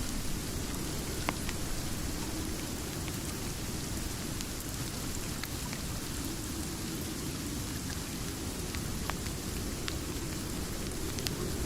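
Steady, heavy rain, strongest in its low end, with a few scattered sharp crackles from a wood fire.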